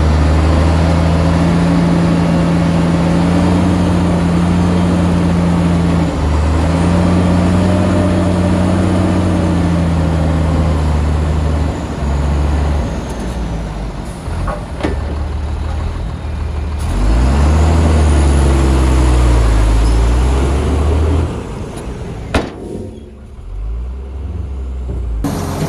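A heavy bulldozer diesel engine working under changing load. Its note holds steady at first, falls away and picks up again in the middle, then rises and falls hard before dropping back near the end, where a sharp click is heard.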